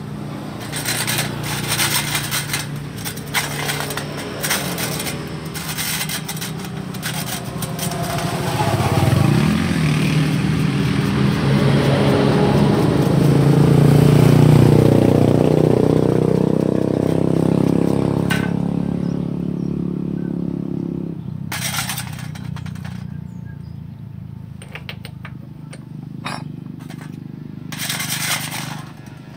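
A vehicle engine running, growing louder to a peak about halfway through and fading out about two-thirds of the way in. Scattered clicks and knocks sound throughout, with a few sharp ones near the end.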